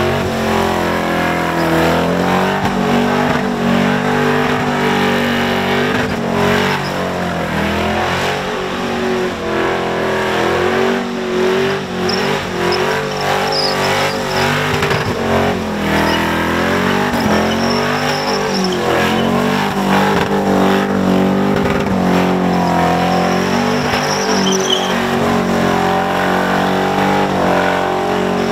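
Supercharged engine of a Holden VK Commodore held at high revs through a burnout, its pitch wavering up and down continuously, with the rear tyres spinning against the pad.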